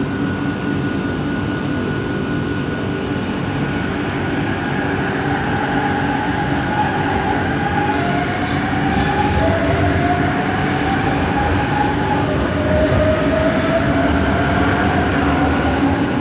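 Bombardier Innovia ART 200 metro train running, heard from inside the car: steady rolling noise under a motor-drive whine. From about five seconds in, the whine rises in pitch in a series of repeated steps, as the train picks up speed.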